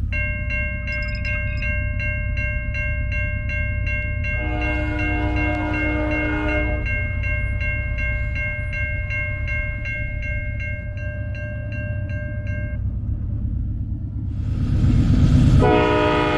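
Diesel freight locomotives running with a steady low rumble as the train gets under way, under an evenly ringing bell that stops about 13 seconds in. The locomotive air horn sounds one blast of about two and a half seconds a little over 4 seconds in, and starts another near the end.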